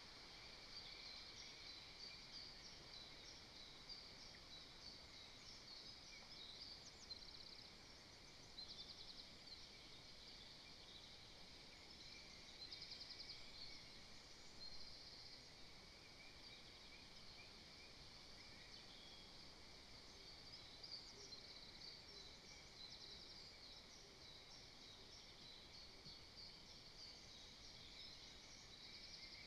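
Faint woodland background of small birds singing at a distance: many high chirps and a few short rapid trills, continuing without a break over a low hiss.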